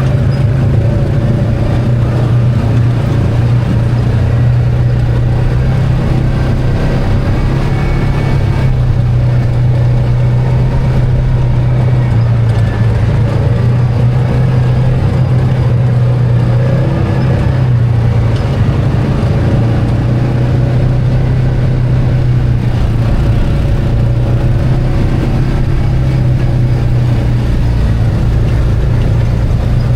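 An ATV engine running steadily under way, its low hum shifting only slightly in pitch.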